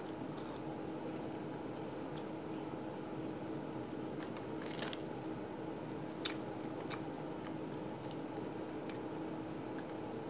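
A person chewing a mouthful of Burger King pretzel fries with the mouth closed, with faint, scattered crunchy clicks. A steady low hum runs underneath.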